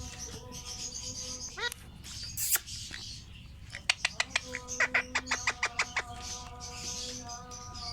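Pet lovebirds chirping, with a quick run of sharp chirps, about five a second, near the middle, over background music with held notes.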